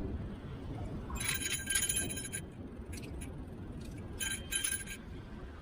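Electric kick scooter riding over pavement: a steady low rumble of wheels and wind. Over it come two bursts of metallic jingling rattle, about a second in and again about four seconds in, as something on the scooter shakes over bumps.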